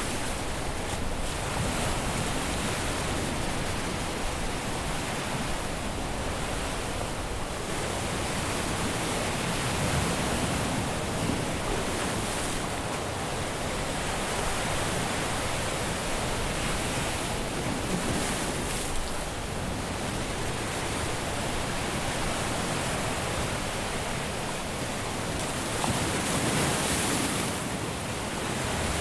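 Caribbean surf washing onto a beach: a steady rush of breaking waves that swells gently every few seconds.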